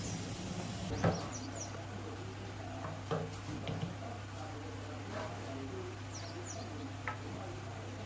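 A few light knocks and clicks of objects being handled over a steady low hum, with faint bird chirps now and then.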